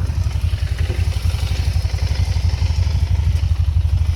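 Motorcycle engine idling, a steady rapid low-pitched pulse.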